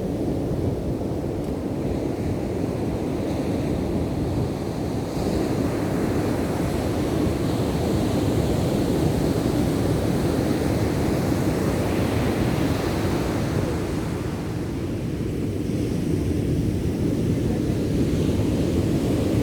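Ocean surf: waves breaking and washing ashore in a continuous rush, swelling louder about five seconds in and easing briefly past the middle, with wind buffeting the microphone.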